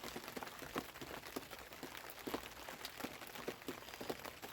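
Light rain: faint, irregular drips and taps, a few each second.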